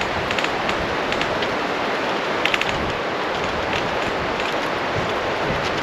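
Campfire crackling: scattered sharp pops and snaps over a steady rushing noise.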